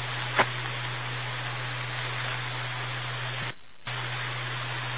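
Police scanner radio hissing with static and a steady low hum between transmissions, with a sharp click about half a second in and the hiss cutting out briefly about three and a half seconds in.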